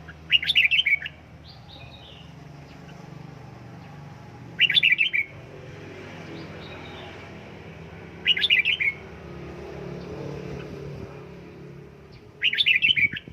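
Red-whiskered bulbul singing short, loud warbled song phrases, four of them about four seconds apart, over a low steady hum.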